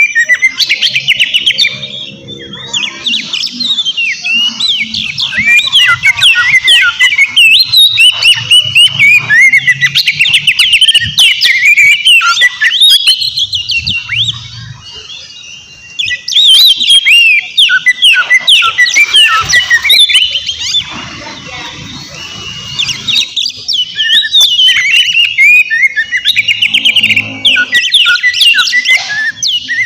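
Oriental magpie-robin (kacer) in full song: a loud, fast, unbroken stream of varied whistles, trills and chirps. The song eases into short lulls about halfway through and again about two-thirds of the way in.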